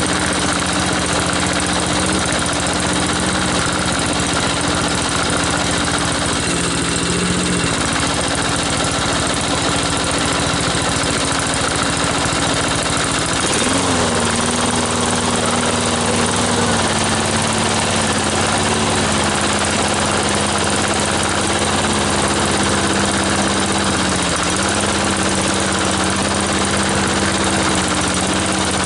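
Harbor Freight Predator small single-cylinder engine on a push lawn mower running steadily at low to mid throttle. Its speed steps down about a quarter of the way in, drops again about halfway, and dips briefly near the end, with the throttle falling back on its own.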